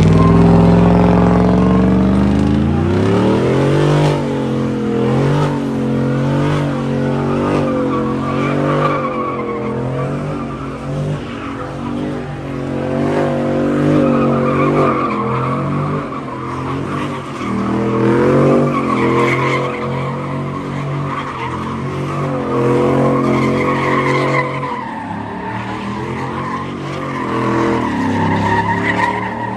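A car spinning its tyres at high revs, with the tyres squealing steadily. The engine climbs over the first few seconds, then holds high, its pitch rising and falling.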